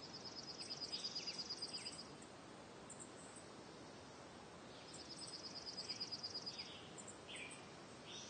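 Birds singing over a faint steady hiss: a rapid high trill of about ten notes a second, heard twice for about a second and a half each, with short chirps and falling notes from other birds in between.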